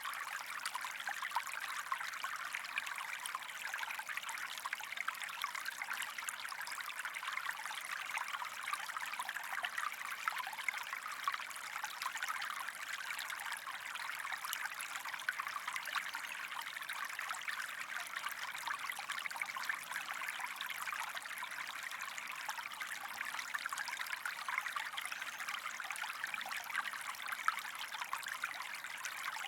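A shallow stream of water running and trickling steadily, a bright splashing rush with fine flickers, without change.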